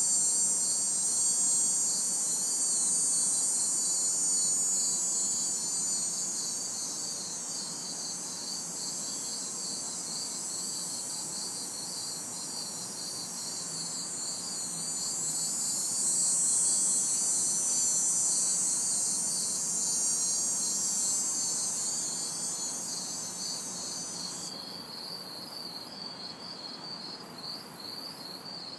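Night insect chorus: crickets chirping in a fast, even pulse, over a higher buzzing drone of cicadas that swells and fades and cuts off abruptly near the end. A faint hiss of distant traffic lies underneath.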